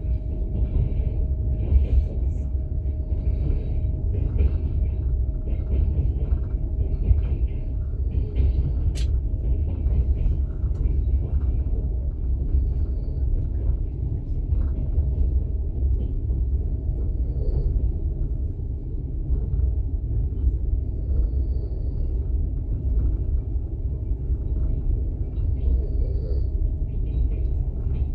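Passenger train in motion heard from inside a platzkart sleeping carriage: a steady low rumble from the wheels and running gear, with a faint steady hum and faint scattered higher knocks and rattles over it.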